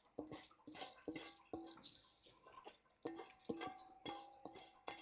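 A utensil knocking and scraping repeatedly against a metal cooking pot, about two or three clinks a second, the pot ringing briefly after each knock.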